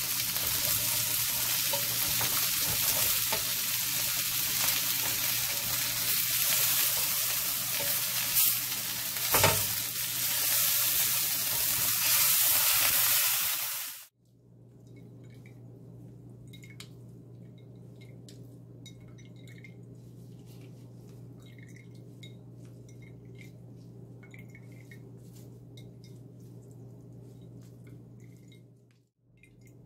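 Semi-dried eel pieces sizzling as they pan-fry in a stainless steel pan, with a couple of sharp taps of chopsticks on the pan around eight to nine seconds in. About fourteen seconds in the sizzling cuts off suddenly, leaving a faint steady hum with light ticks and drips.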